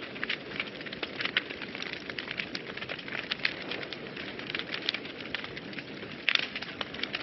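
Wood fire burning in a fireplace: a steady low rush of flames with frequent sharp crackles and pops, a brief cluster of louder pops near the end.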